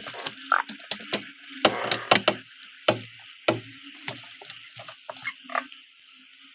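Frogs calling in a steady chorus, with a low droning call that breaks off and returns, overlaid by a rapid series of sharp knocks and clatter from handling.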